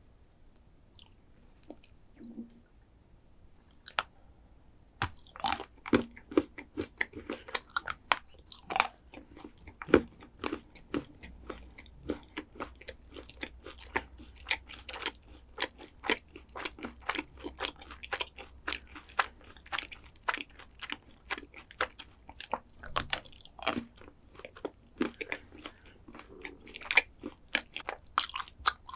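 Close-miked chewing of a crunchy chocolate dessert: dense, irregular crunching that starts about five seconds in, after a near-quiet start with a single click.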